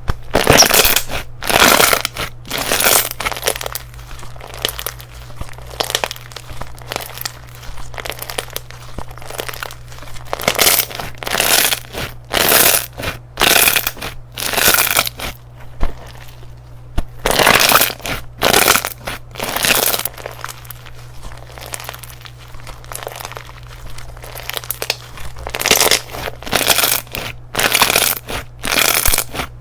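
Hands pressing and squeezing slime, in repeated short noisy bursts about once or twice a second, with quieter stretches between the bursts.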